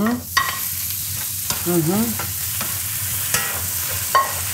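Chopped tomatoes and sliced onions sizzling in hot olive oil in a nonstick wok, stirred with a wooden spatula that knocks against the pan a few times.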